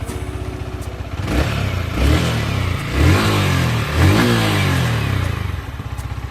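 Yamaha R15 V3's 155 cc single-cylinder engine idling, then revved with about four throttle blips that rise and fall, before settling back to idle. It is running again after rat-chewed wiring was repaired.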